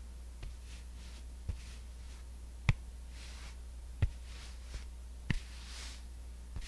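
Close-miked skincare ASMR prop sounds: about six sharp taps or clicks at irregular intervals, the loudest near the middle, with soft swishes between them over a low steady hum.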